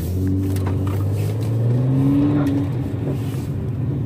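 Mercedes-AMG C43's M276 twin-turbo 3.0-litre V6 heard from inside the cabin, running at low revs while the car moves slowly in second gear. Its pitch rises a little about two seconds in, then eases back.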